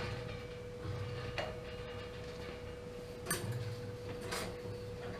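Three light clicks or taps, spaced about a second or two apart, over a steady hum with a faint thin whine.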